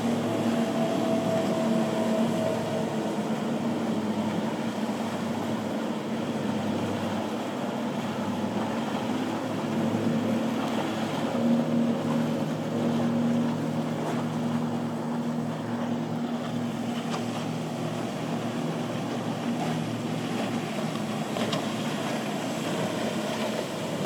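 Motorboat engines running steadily as boats pass, a low hum with a few steady tones over wind and water noise, a little louder about halfway through.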